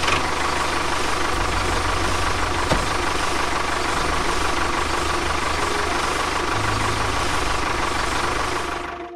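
Tractor engine running steadily, a loud, even engine noise with a low rumble, dropping away near the end.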